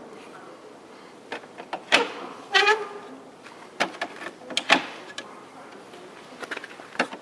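Irregular clicks and knocks, with a brief squeak about two and a half seconds in, from a Festool CTM 55 dust extractor and its parts being handled; the suction motor is not running.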